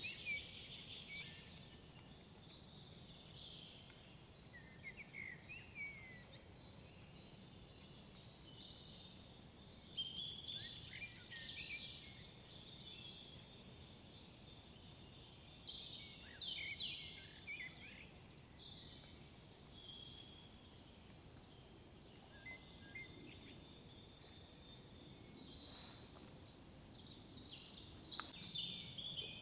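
Several songbirds singing in woodland, one repeating a song phrase that ends in a high rapid trill about every seven seconds, over a faint steady background hiss.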